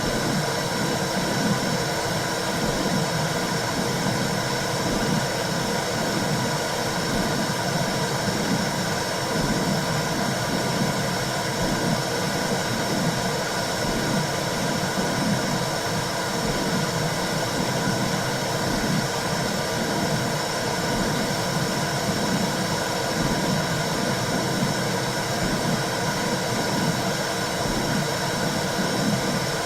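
Womb sound for calming a baby: a steady low rushing whoosh that flickers unevenly, over a constant hiss, with no change in level.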